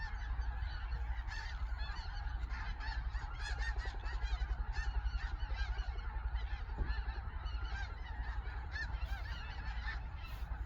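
A huge flock of snow geese and Canada geese calling together: a dense, continuous chorus of many overlapping honks, with a steady low rumble underneath.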